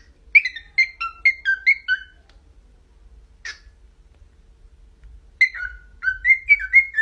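Pet bird whistling two quick melodic phrases of sliding notes, about four notes a second, with a pause of about three seconds between them.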